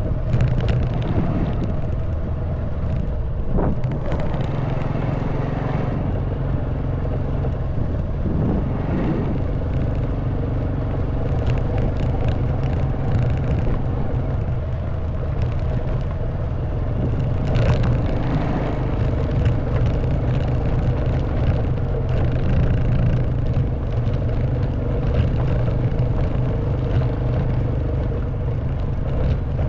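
Honda Wave 110cc's single-cylinder four-stroke engine running at a mostly steady speed under way, with frequent clicks and knocks from the bike riding over a stony track.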